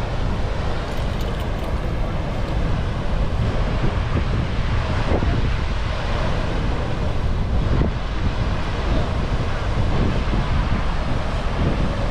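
Flooded Blue Earth River water rushing through and over the Rapidan Dam: a steady, loud rush, with wind buffeting the microphone.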